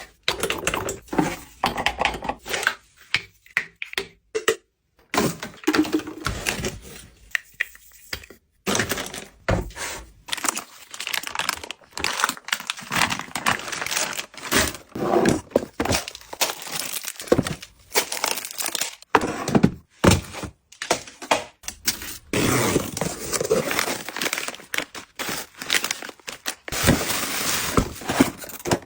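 Packaging being handled and opened: irregular crinkling and tearing with knocks and thunks, broken by brief quiet gaps.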